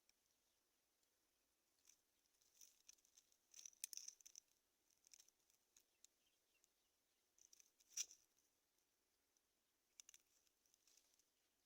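Faint rustling and scratching with scattered light clicks from birds stirring in a grass nest. The clicks cluster about three to four seconds in, with a single sharper click about eight seconds in.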